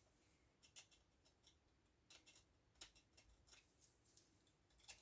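Near silence broken by a few faint, short scrapes and ticks: crusted paint being scraped off a chainsaw guide bar.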